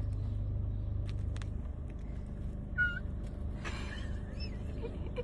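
Car engine idling with a steady low rumble. A short high squeak comes a little under three seconds in, and a brief rustling burst follows about a second later.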